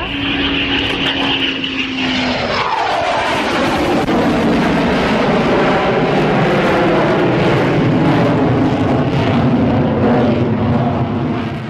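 Aircraft flying past: its engine tones drop sharply in pitch as it passes, about three seconds in, then a loud, steady engine sound that eases off near the end.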